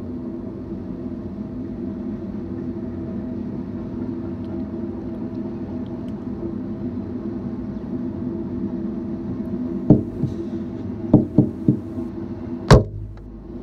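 Intermodal freight train rolling past: a steady rumble with humming tones from the moving cars. Near the end come a handful of sharp knocks, the loudest a second before the end, after which the rumble drops away.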